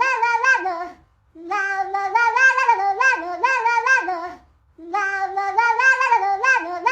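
A high voice singing a melody in three phrases, each a few seconds long, with short breaks between them.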